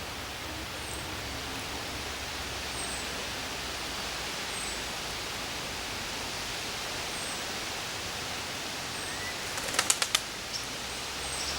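Small songbirds giving thin, high, short calls every second or two over a steady outdoor hiss, with a brief flutter of wingbeats just before ten seconds in.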